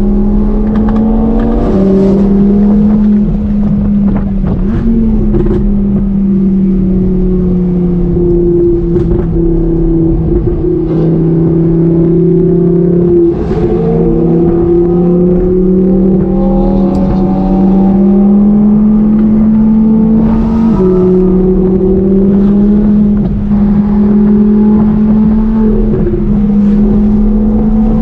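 A high-performance car engine runs under steady load while driven at cruising speed. Its pitch slowly drifts up and down, with a sudden drop about two seconds in, as from an upshift.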